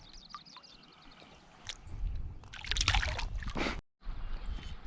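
Water sloshing and splashing as a hooked brook trout thrashes at the surface; it starts faint and grows louder about two seconds in, with a brief cut-out near the end.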